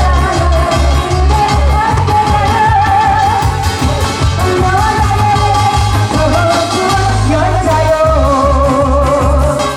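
Amplified singing over a loud backing track with a steady, pulsing bass beat; the voice holds long notes with a wavering vibrato.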